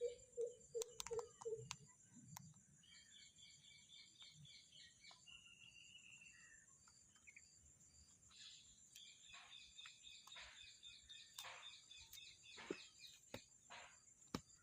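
Faint parrot chirping in runs of short, quick notes, with a few sharp clicks in the first two seconds and a steady high-pitched hiss beneath.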